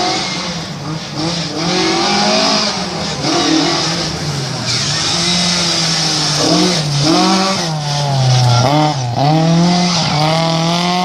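Classic rally car engine running hard. Its note holds for the first few seconds, then drops and climbs again several times in the second half.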